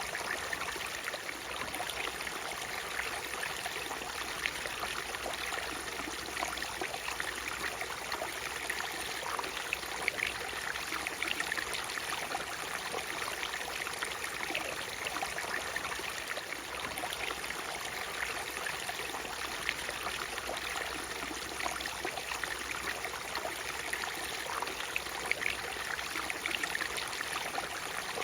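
Natural waterfall: water falling and splashing steadily, an even rush flecked with small splashes and trickles.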